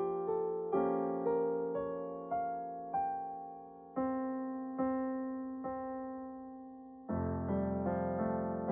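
Piano music: notes and chords struck one after another and left to ring down, slowing to longer held chords, then a louder, fuller passage with low bass notes about seven seconds in.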